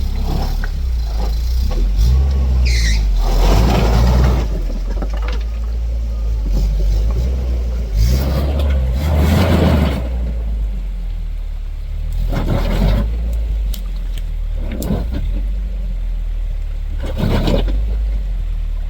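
An off-road 4x4 truck's engine running with a steady low rumble, surging about five times in short bursts of a second or two each as the truck is driven up the trail.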